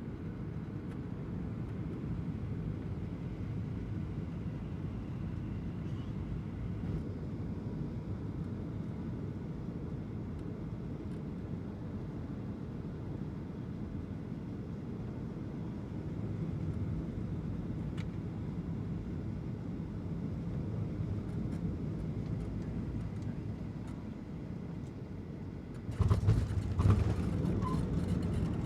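Boeing 737-800 cabin on final approach: a steady low rumble of engines and airflow. Near the end a sudden thump and a louder rumble with sharp knocks come in as the wheels touch down on the runway.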